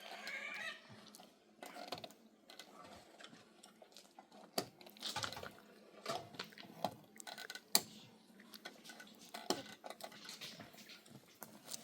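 Irregular clinks and knocks of metal pots, dishes and utensils being handled, a dozen or so scattered strikes, with one sharper clank just before the eighth second.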